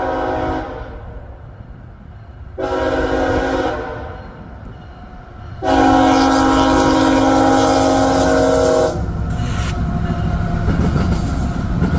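CSX freight locomotive's multi-chime air horn sounding for a grade crossing. A blast ends about half a second in, a short blast follows, then a long, loud final blast. After it, the locomotives and cars rumble past, with wheels clacking on the rail joints.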